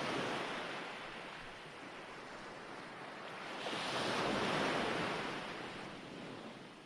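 Ocean waves washing onto a shore: one wave dies away, then another swells up, peaks about four and a half seconds in and falls away again.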